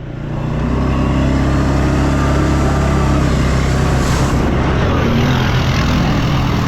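ATV engine running at a steady pitch, fading in over the first half second.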